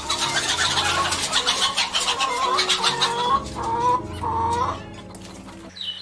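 A flock of domestic hens clucking and cackling, many calls overlapping, with a few longer drawn-out calls in the second half. It quietens near the end.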